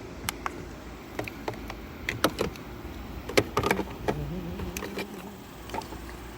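Scattered sharp clicks and knocks from handling a portable jump starter's clamps and leads at a motorcycle battery's terminals.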